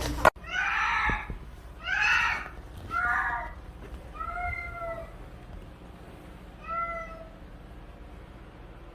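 Cat meowing five times, the first three calls louder and the last two thinner and fainter. A brief sharp click comes just before the first meow.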